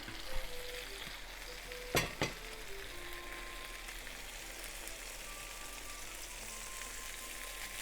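Chicken thighs frying skin-side down in oil in a frying pan: a steady sizzle, with two sharp knocks about two seconds in.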